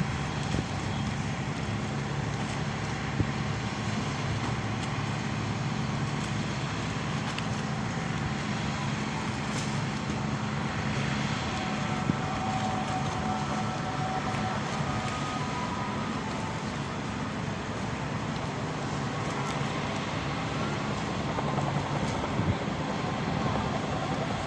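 Speedboat engine running steadily over a rushing noise; its low hum fades about halfway through.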